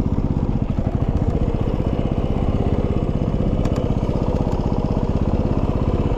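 Yamaha WR250R's single-cylinder 250 cc engine running steadily, with an even, rapid firing pulse.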